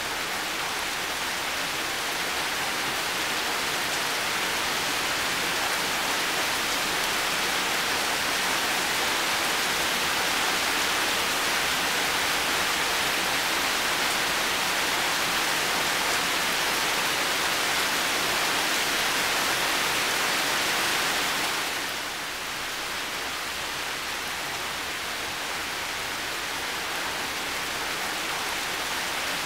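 Heavy rain falling steadily in a garden, a dense even hiss that eases a little about two-thirds of the way through and then builds again.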